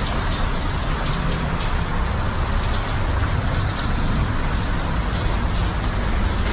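Underground cave waterfall swollen by days of rain: a loud, steady rush of falling water with a deep rumble underneath.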